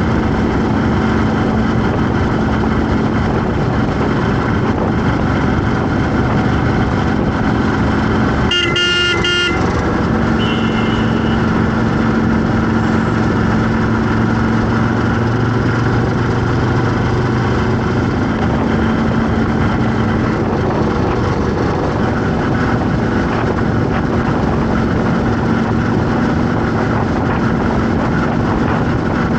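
Heavy road traffic: steady engine noise, with a vehicle horn blaring for about a second around nine seconds in, then a short, fainter, higher horn just after.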